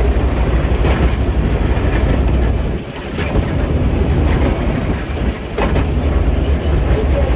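Theme-park tourist train running on its track: a steady low rumble with a wheel clack over the rail joints about once a second, easing briefly about three seconds in.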